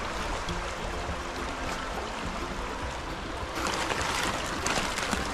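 Steady rush of flowing river water, with a louder rustling noise coming in a little past halfway.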